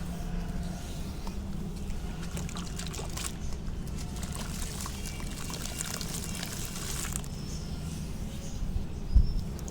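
Soft sand-cement soaked in water, crumbling apart with fine crackling and trickling water, and a low thump near the end.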